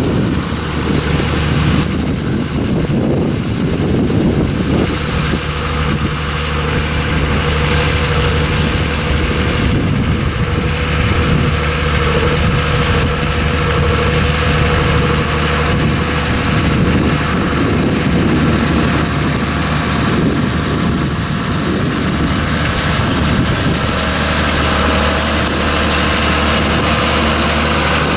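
Tractor engine running steadily close by, a low even drone.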